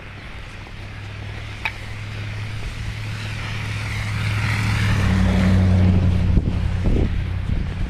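A motor vehicle passing by: a low engine hum and road noise growing louder to a peak about five or six seconds in, then fading.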